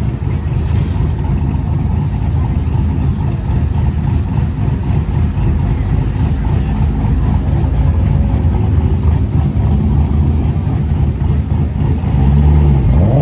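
Car engine running under way with road noise, a steady low rumble that swells louder about a second before the end.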